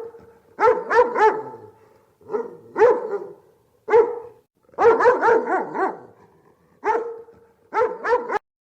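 A dog barking repeatedly in quick clusters of two or three barks, with short pauses between them; the barking stops abruptly near the end.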